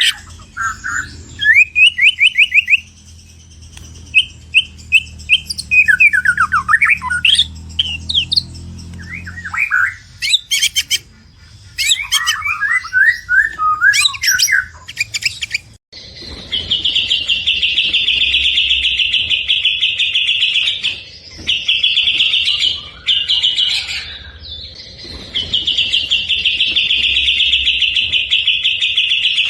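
Songbird singing loudly: varied whistled phrases, glides and quick chatters with short gaps. About halfway through it changes abruptly to long, fast, high trills of several seconds each, repeated with brief breaks.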